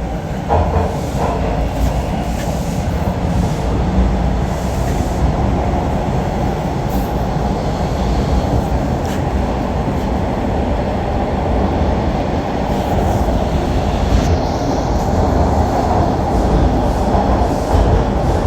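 Toronto subway train running between stations, heard from inside the car: a loud, steady rumble of wheels and motors on the track, with a few faint clicks.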